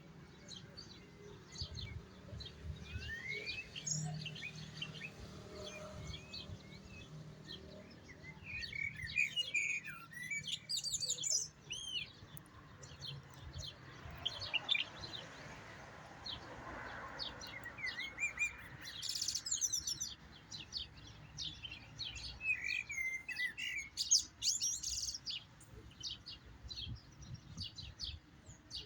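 European goldfinch singing: bursts of fast twittering and chirping notes with short pauses between phrases.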